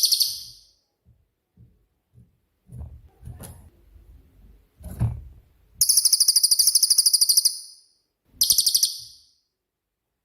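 Cililin songbird singing in high, rapid, pulsing trills: a short burst at the start, a long one of about two seconds past the middle, then a shorter one. Faint low knocks come in between.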